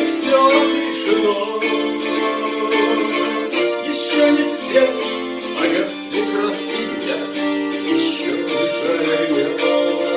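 Wing-shaped 11-string gusli played, plucked strings ringing in a quick, even rhythm with a melody over held chords.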